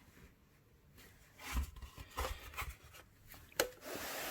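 Knocks and clicks of PS4 console casing parts being handled and fitted back together, then a steady rubbing hiss near the end.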